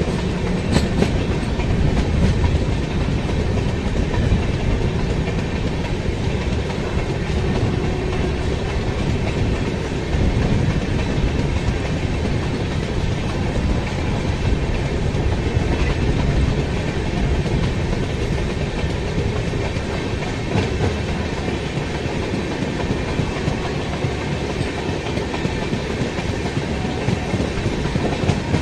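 Karaikal Express passenger train running at speed, heard from aboard a coach: a steady rumble of wheels on the rails with clickety-clack over the rail joints.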